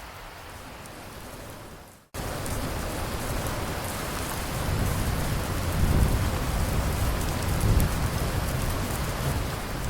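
Steady rain falling, with thunder rumbling low and rolling through the middle and later part. About two seconds in, the rain briefly fades out and then cuts back in suddenly, louder.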